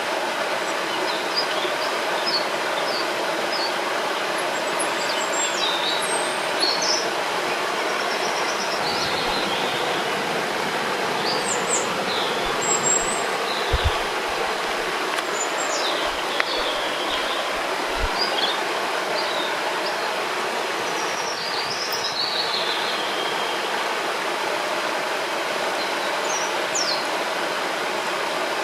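Steady rush of flowing river water, with small birds chirping and whistling on and off above it.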